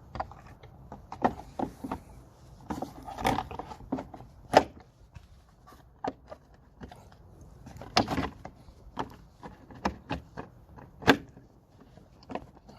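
Plastic car trim and clips being handled, giving irregular clicks, knocks and scrapes, with sharp knocks about four and a half seconds in and again near eleven seconds.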